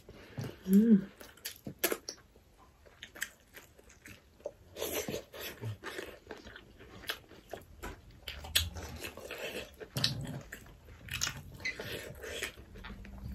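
Close-miked chewing and biting of people eating rice and barbecued pork by hand, with many small wet clicks and crunches. About a second in there is a short vocal sound, the loudest moment.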